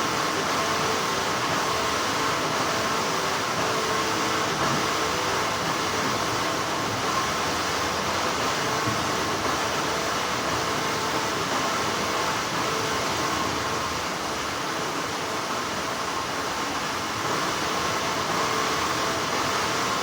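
Continuous hum of textile factory machinery: a steady, even whirring noise with a faint high whine running through it.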